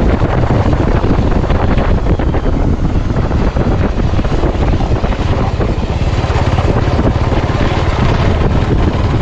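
Motorcycle engine running steadily while riding, with wind rushing over the camera's microphone.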